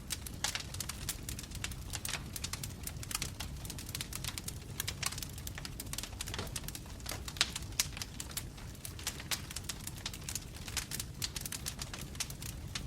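Burning wood logs in a fireplace crackling and popping in quick, irregular snaps over a low, steady rumble.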